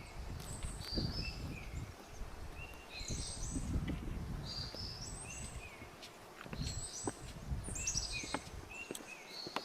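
A songbird singing short, high phrases of stepped notes, repeated about every two seconds, over footsteps crunching along a forest trail.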